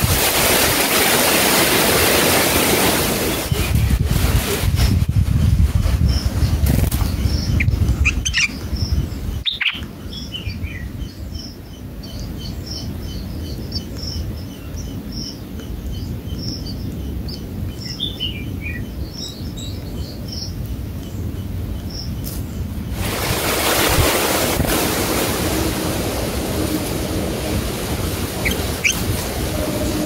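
Birds chirping: a rapid run of high, thin chirps and a few short downward-sliding calls, heard in the quieter middle stretch. Spells of loud wind-like rushing noise come before and after them.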